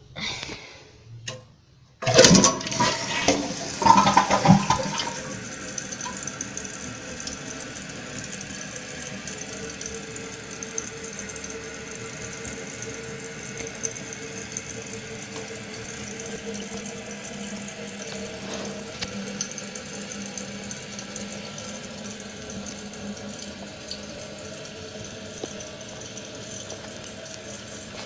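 2014 Kohler Wellworth toilet flushing: a couple of light clicks, then about two seconds in the flush starts suddenly and is loudest for the next few seconds. It then settles into a steady hiss of the tank refilling, with a faint held tone.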